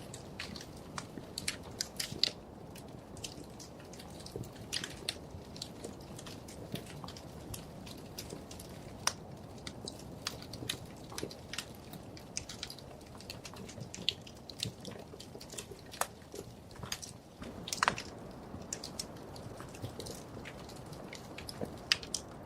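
Wood fire burning in a fireplace: a soft steady rumble with irregular sharp crackles and pops, a few louder pops about two seconds in and near the end.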